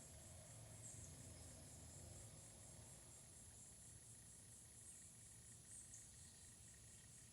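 Near silence with crickets chirping faintly in a steady, even pulsing trill.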